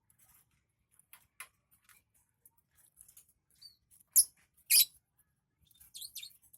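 Lovebirds feeding on white millet and chopped water spinach: faint scattered clicks of beaks working the food, two sharp louder clicks about four and five seconds in, and brief high squeaky chirps near the end.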